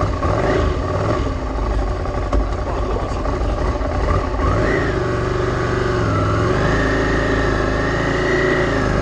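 Ducati Scrambler Cafe Racer's air-cooled L-twin engine running after the attempts to start it. About halfway through the revs rise, dip, then are held higher for a couple of seconds before easing off near the end.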